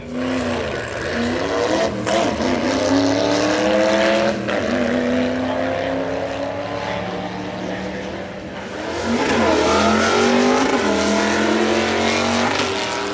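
V8 drag car engines at full throttle, accelerating hard down the strip. The pitch climbs and drops back at each gear change, and a second run of rising engine pitch starts about nine seconds in.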